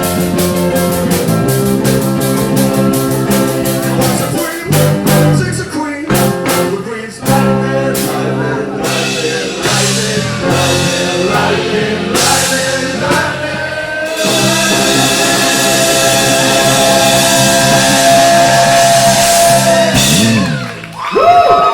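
Live rock-and-roll band with singing, guitar and drums playing the close of a song: a run of sharp, stopped band hits, then one long held final note, followed by rising vocal whoops near the end.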